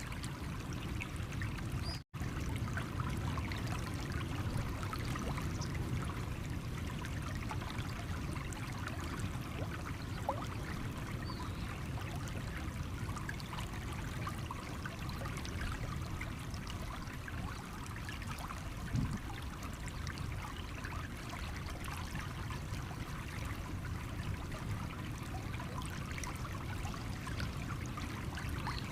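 Small stream trickling and babbling steadily over stones, with a momentary dropout to silence about two seconds in.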